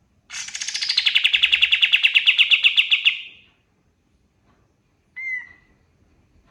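Kapas tembak songbird singing: one fast, rattling trill of about ten notes a second lasting some three seconds, starting high and dropping to a lower, steady pitch, followed about two seconds later by a single short call.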